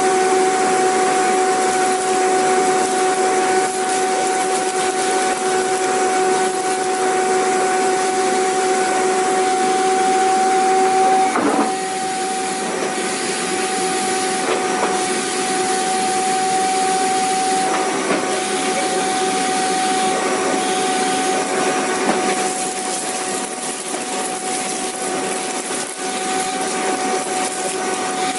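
Vacuum cleaner running steadily: a motor whine over rushing airflow. A few light knocks come through, and the level drops slightly about a third of the way in.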